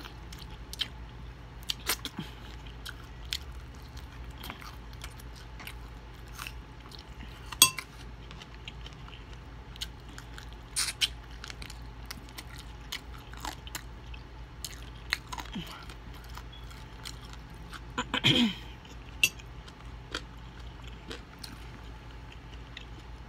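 Close-up chewing and biting of a fried chicken wing, with crisp crunches and wet mouth sounds as meat and skin are stripped from the bone. The sharpest crunch comes about seven and a half seconds in, and a cluster of louder chewing comes around eighteen seconds in.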